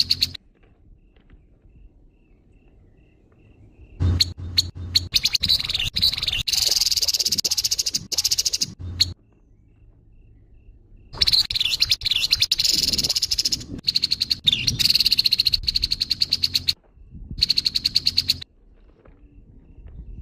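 Grey-headed babbler (tepus kepala abu) giving its harsh chattering call: fast runs of rasping notes in bursts of several seconds, three in all, with quiet gaps between them.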